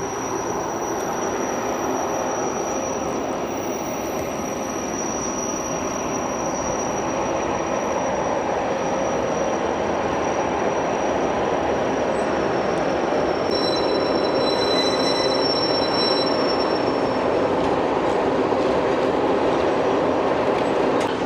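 Matterhorn Gotthard Bahn Ge 4/4 electric locomotive No. 81 and its car-carrying wagons rolling slowly over the tracks. The wheels give thin, high, steady squeals over the rolling noise, which grows gradually louder as the train approaches.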